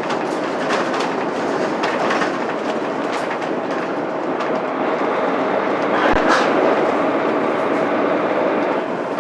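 Inside a moving Mitsubishi Fuso Aerostar city bus: the 6M70 straight-six diesel running steadily under road noise, with frequent short rattles and clicks from the cabin.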